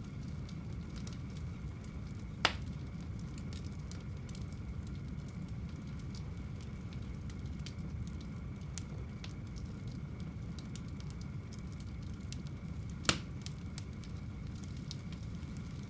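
Wood fire burning in a home fireplace: a steady low rumble of the flames with light crackling, and two sharp pops from the burning wood, one about two and a half seconds in and one about thirteen seconds in.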